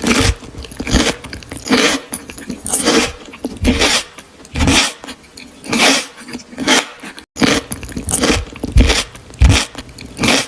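Close-miked crunchy eating: loud bites and crunches about once a second, with chewing between them.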